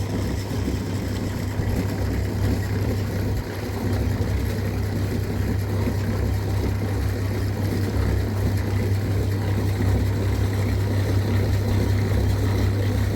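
A steady low engine hum that runs on evenly, with no break.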